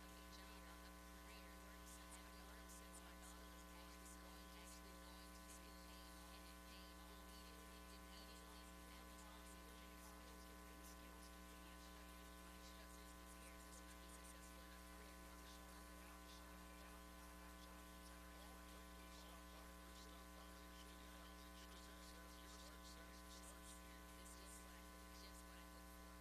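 Near silence with a faint steady electrical hum and a few faint crackles.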